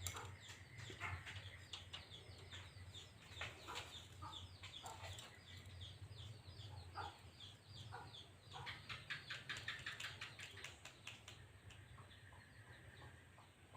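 Birds chirping: a quick run of short, falling chirps, several a second, busiest about two-thirds of the way through, with a faint low hum underneath.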